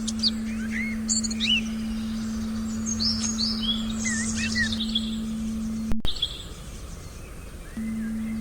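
Forest ambience with several small birds chirping and whistling over a steady low meditation tone. The tone cuts off with a click about six seconds in and comes back near the end.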